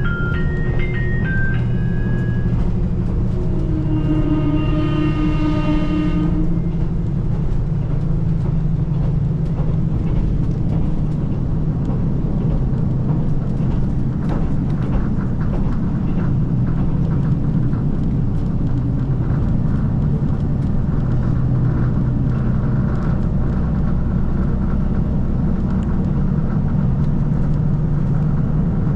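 Steady running noise of a JR Shikoku KiHa 185 series diesel express: a low engine drone mixed with wheel and rail rumble. About four seconds in, a pitched tone with overtones sounds for about two seconds.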